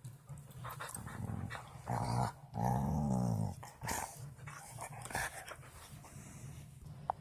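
A dog growling: a short growl about two seconds in, then a longer one lasting about a second.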